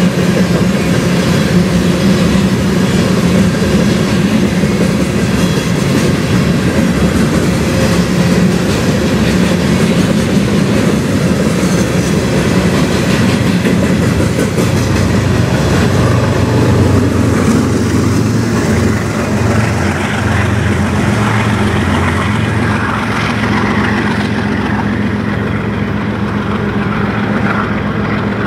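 Freight train of covered hopper cars rolling past at speed, steel wheels rattling and clacking over the rails. In the last third the clatter fades and a lower, steadier rumble takes over.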